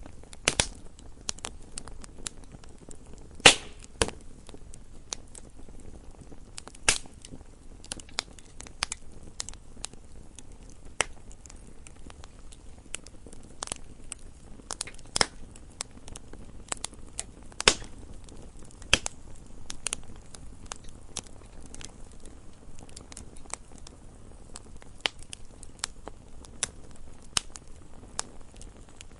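Wood fire burning in a fireplace: irregular sharp crackles and pops over a low steady hiss of the flames.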